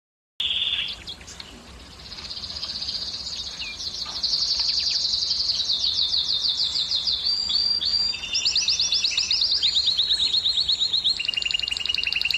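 Domestic canary singing. After a moment of silence, a long song of rapid trills follows: each is a fast run of one repeated note held for a second or two before switching to the next. Near the end a trill sounds on two pitches at once.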